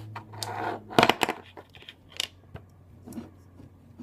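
Hands rummaging among craft supplies, small hard items clicking and rattling against each other, loudest in a short clatter about a second in.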